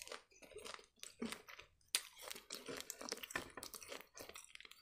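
Chewing sugar-coated gummy candy: a run of quick, wet mouth clicks and smacks, fairly faint.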